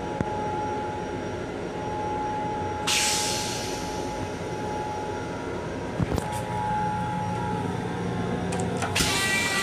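Steady running noise of an M7 electric railcar heard from inside its restroom: a rumble with a constant whine. A brief hiss comes about three seconds in, a couple of sharp knocks come about six seconds in, and more knocks and hiss come near the end.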